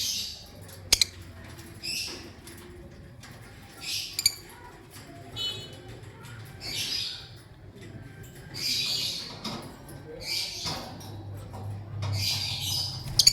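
Lovebird giving short, harsh, shrill chirps, one every second or two, with a few sharp clicks among them and a low steady hum underneath.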